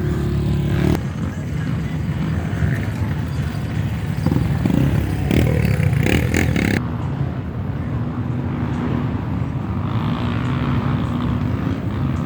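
Off-road motorcycle engines running, with a burst of clattering knocks a little past the middle. The sound changes abruptly about a second in and again about seven seconds in.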